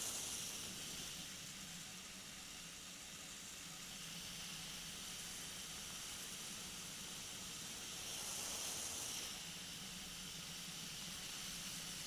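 A weight-shift microlight trike in flight: a steady hiss of engine and airflow with a faint low hum, swelling slightly near the start and again about eight seconds in.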